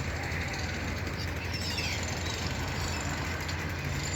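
A faint seagull call, short and falling, about one and a half seconds in, over a steady low rumble.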